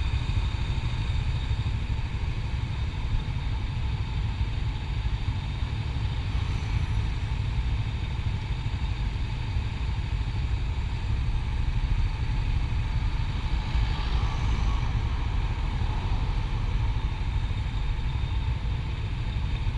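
Motorcycle engine running steadily, with a heavy, even low rumble that does not let up.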